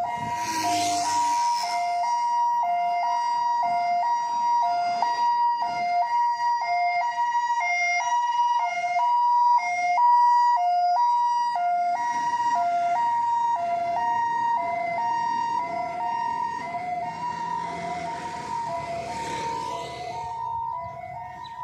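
Emergency vehicle siren sounding a two-tone hi-lo wail, switching between a high and a lower steady pitch about twice a second. Passing vehicle noise swells briefly at the start and again near the end.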